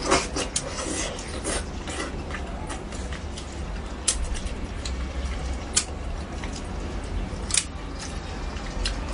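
Close-up eating of spicy braised fish: wet chewing and mouth sounds, with a sharp click every second or two, over a steady low hum.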